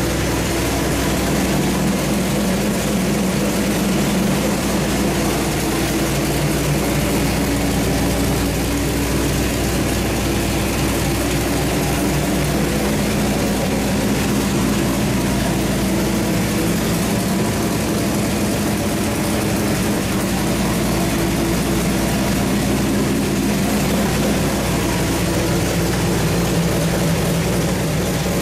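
Small-block Chevrolet 383 stroker V8 with a Comp Cams hydraulic roller cam and a Quick Fuel SL-750 carburetor, running on an engine dyno at a steady speed without revving.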